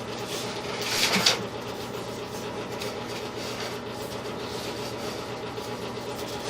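Sewer inspection camera's push cable being fed outbound through the drain line: a steady mechanical hum with a louder rushing swell about a second in.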